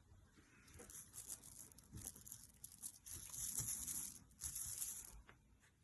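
Crinkling and rustling in a run of short bursts, like a puppy pawing and mouthing a crinkly toy.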